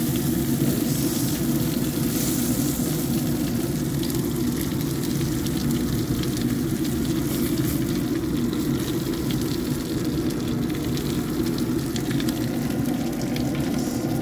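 Zucchini frying in chicken fat on a sheet pan in a hot grill, sizzling steadily with fine crackle, over a steady low rumble.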